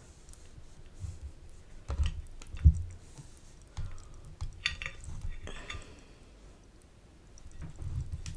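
Close-up chewing of a chicken gyro wrap: soft wet mouth clicks and smacks with low bumps, and one sharper thump a little under three seconds in.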